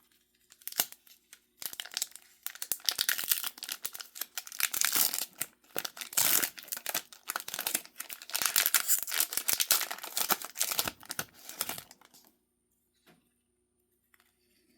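A sealed trading-card pack's wrapper being torn open and crinkled by hand, a dense crackling, rustling run of about ten seconds that stops fairly suddenly, followed by a few faint clicks.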